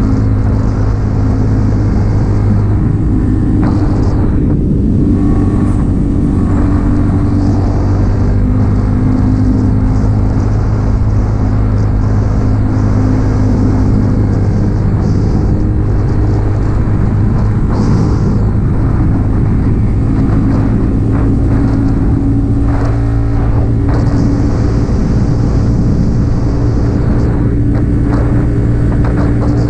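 Yamaha XSR 155's single-cylinder four-stroke engine, breathing through an aftermarket M4 exhaust, running steadily under way with only slight changes in engine speed.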